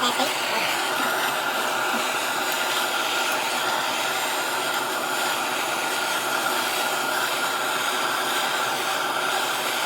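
Electric blower-type tool, such as a heat gun, running steadily: an even rush of air with a faint steady whine, starting abruptly.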